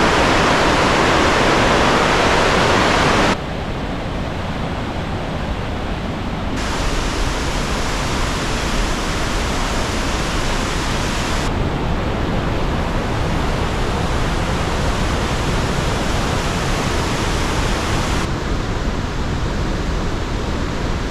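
Kakabeka Falls, a large waterfall, pouring with a steady rushing roar of heavy water. The sound is loudest and brightest for the first three seconds, then turns duller and shifts abruptly in tone several more times.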